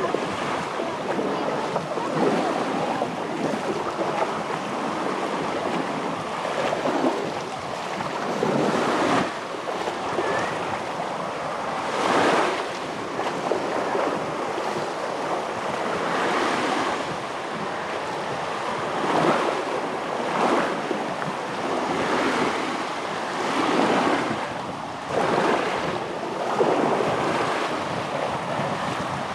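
Surf breaking on a beach, swelling and washing in every few seconds, with wind noise on the microphone.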